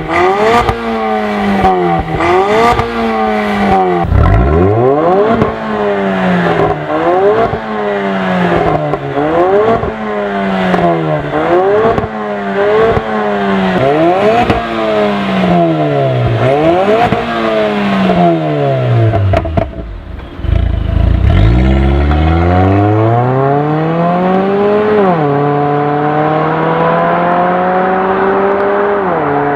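Range Rover Evoque with an ARMYTRIX valved exhaust, its engine revved over and over: the note climbs and falls back roughly once a second, twice dropping to a low idle. Near the end it rises once more and then holds a steady note.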